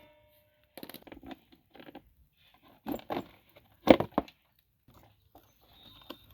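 Irregular clicks, knocks and scraping as the air filter cover and box parts of a motorcycle are handled and taken apart by hand, with the loudest knocks about three and four seconds in.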